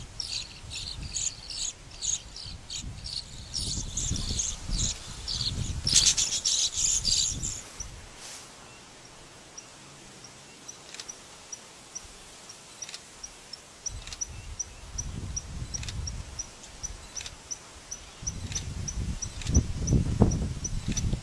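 Small cage birds chirping: a busy chatter of high calls for the first several seconds, then a single short high chirp repeating about twice a second. Low rumbling noise comes and goes underneath.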